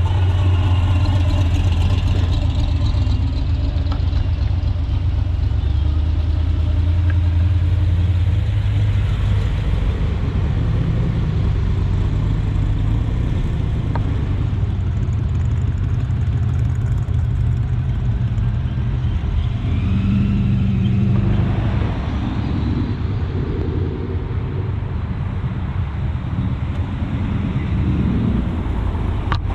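A car engine running at low speed with a steady low hum. Around twenty seconds in, a brief higher tone rises over it.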